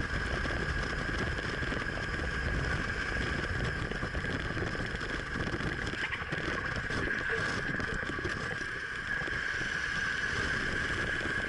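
Motorcycle riding at steady speed, with wind rushing over the onboard microphone over the rumble of the engine and road, and a steady high whine.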